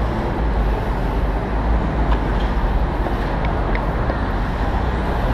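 Steady low wind rumble on a bicycle-mounted action camera's microphone while riding, mixed with city street traffic noise, with a few faint light clicks around the middle.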